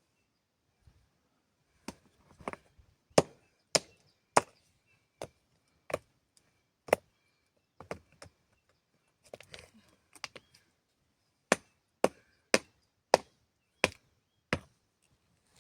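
Chopping: a series of sharp single strikes, roughly one every half second to second, with a looser patch of lighter knocks midway.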